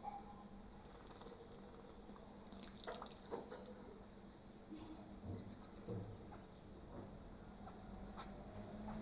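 Small birds splashing in shallow water as they bathe, with a flurry of splashes about two and a half to three and a half seconds in, and faint high chirps throughout.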